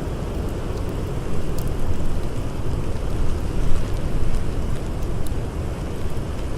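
Blizzard wind blowing hard and steadily, rising and falling a little in gusts, with a few faint crackles of a campfire.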